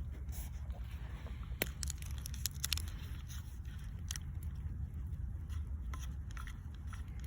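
Wood campfire crackling, with scattered sharp pops clustered in the first few seconds, over a steady low rumble.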